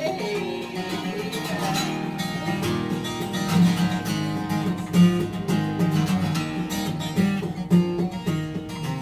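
Acoustic guitar strummed steadily in a live country song, a sung note ending right at the start.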